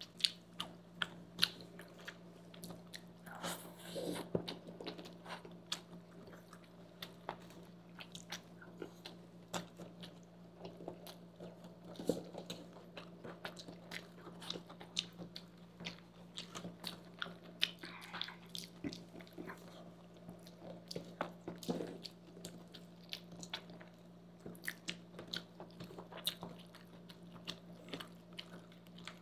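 Close-miked eating sounds of people chewing red-sauce fusilli pasta: wet chewing, lip smacks and many small sharp mouth clicks. A steady low hum runs underneath.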